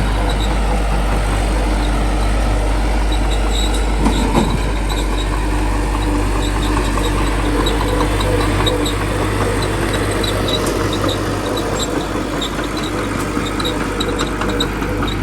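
Small bulldozer's diesel engine running steadily, with light regular ticking over the top and a brief louder swell about four seconds in.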